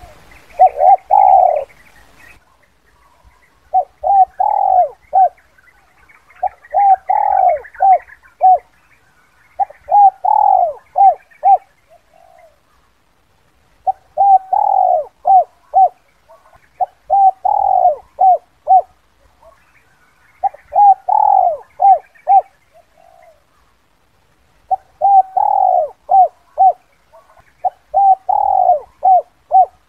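Spotted dove cooing repeatedly in the 'kuk 2' call pattern used as a trapping lure: a phrase every two to three seconds, each made of short coos around one longer, louder coo. Faint higher chirping sounds behind the coos.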